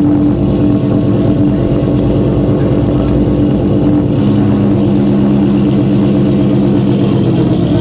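A car engine running steadily and loudly near the microphone, its pitch holding level with no revving.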